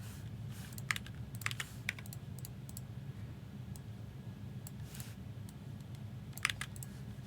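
Scattered key taps and clicks on a computer keyboard, in a few quick clusters, over a steady low hum.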